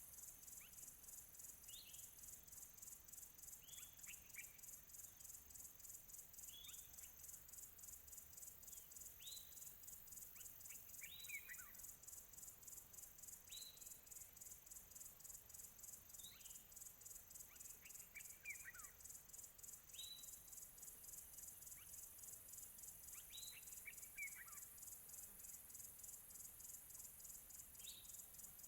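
Crickets chirping steadily in a fast, even pulse, with a bird repeating a short call that drops from high to lower pitch about every two seconds. Faint and distant.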